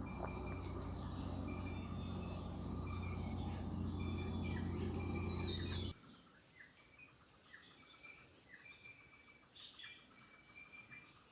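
Insects chirping steadily in high, repeated notes. Under them, for about the first six seconds, a low hum, which cuts off abruptly.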